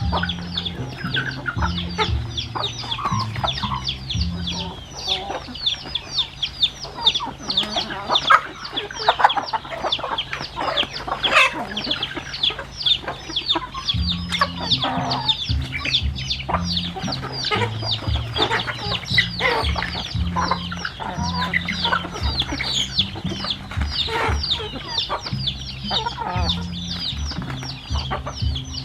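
A flock of chickens clucking and calling, with a constant fast stream of high, short, falling peeps over lower clucks.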